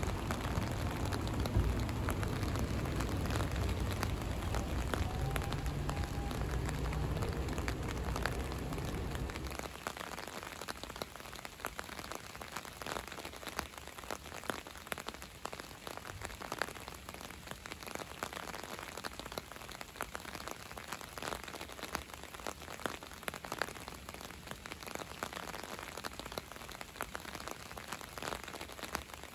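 Steady rain falling, with many separate drops ticking close by. For about the first ten seconds a low rumble runs under it, then drops away.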